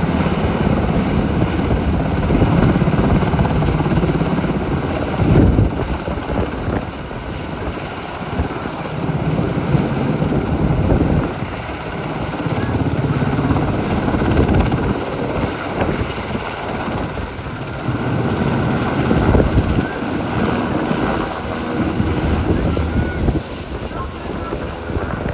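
SH-60K twin-turbine helicopter running: steady rotor and engine noise that swells and eases every few seconds.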